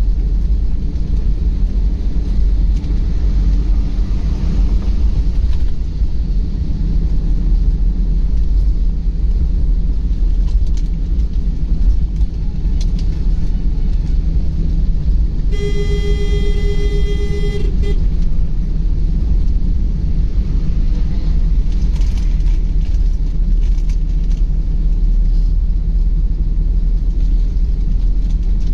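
Steady low rumble of a car driving along the road. Just past the middle, a vehicle horn sounds once, held for about two and a half seconds.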